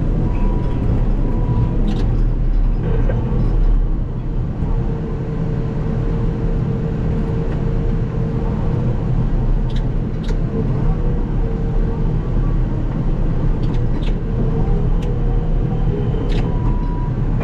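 Caterpillar D6K2 XL fire dozer's diesel engine running steadily, with a held whine that comes and goes and a few scattered sharp clanks.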